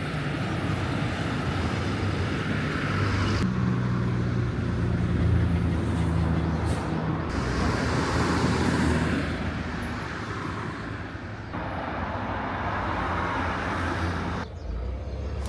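Road traffic and car engine noise, in several short spliced clips that change abruptly every few seconds.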